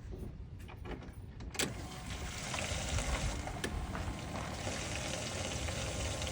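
Ignition switched on in an LS-swapped 1978 Chevrolet Caprice: a sharp click about one and a half seconds in, then the electric fuel pump priming the system with a steady whirring hiss.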